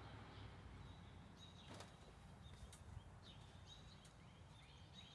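Faint garden ambience with a bird chirping: short downward-sliding chirps, coming more often in the second half, over a low background rumble, with one faint tick about two seconds in.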